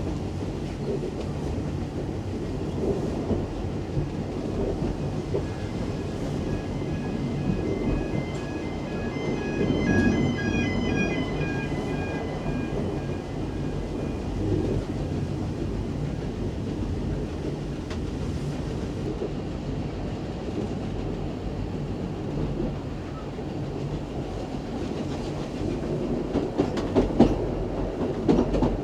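Heritage steam train of the Isle of Man Steam Railway running along the track, with the steady rumble of the coaches and the clickety-clack of wheels over rail joints. The clicks grow sharper and louder near the end.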